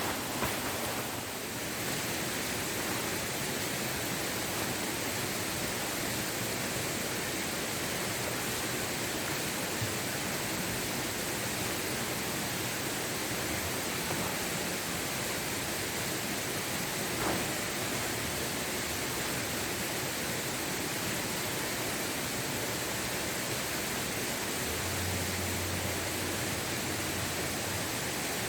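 Steady, even rush of a waterfall's falling water, with a brief low hum for a couple of seconds near the end.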